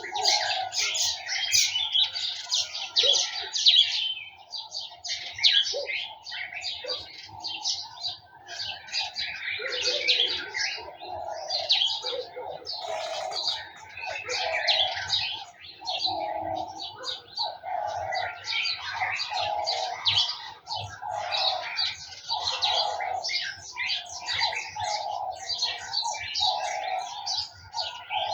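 Several small birds chirping and twittering in a dense, overlapping chorus. A lower call repeats about once a second through the second half.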